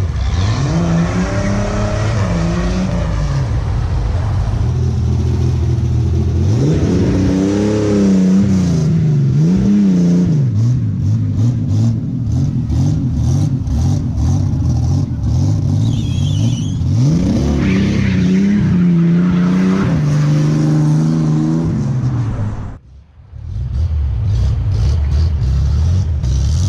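Turbocharged VW AP engine of a Gol running under load, its pitch climbing and falling repeatedly as it is revved up and eased off through the gears. The sound drops out briefly near the end.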